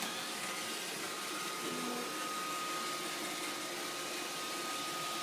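Roomba 531 robot vacuum running: a steady whirring noise with a thin high whine that sets in about a second in.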